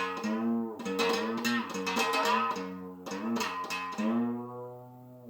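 Single-string diddley bow with a tin-can resonator being plucked about once a second, the pitch of each note bending up or down as a finger presses the metal string. The last note rings out and fades.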